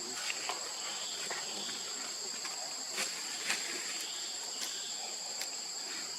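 Steady high-pitched drone of insects, such as crickets or cicadas, with a few short sharp clicks scattered through it.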